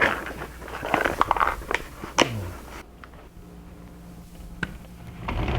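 Rummaging through hardware for screws or nails: a quick flurry of clicks and rattles for about three seconds. Then it goes quieter, with a low steady hum and one more click.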